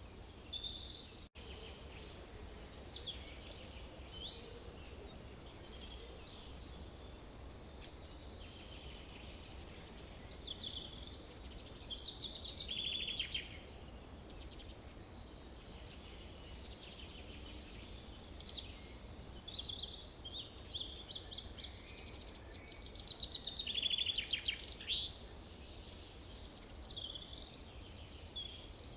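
Forest birds singing and calling, many overlapping short calls with a louder rapid trill about twelve seconds in and another near the end, over a steady low rumble. The sound drops out briefly about a second in.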